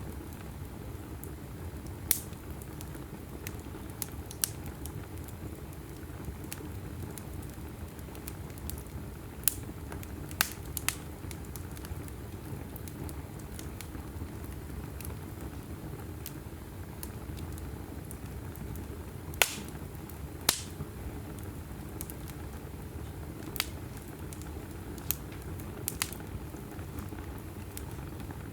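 Wood logs burning in an open fireplace: a steady low rumble with scattered sharp crackles and pops, two louder pops close together about two thirds of the way through.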